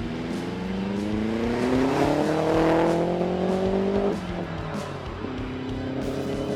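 Audi S3's turbocharged 1.8-litre four-cylinder engine accelerating hard, its pitch rising steadily for about four seconds, then dropping sharply and pulling again at a lower, steadier pitch.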